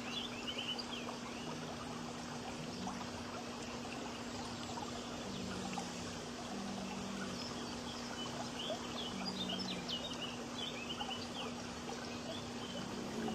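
Small birds chirping in quick, high twittering runs, one cluster at the start and another in the middle, over a steady hiss and a low hum.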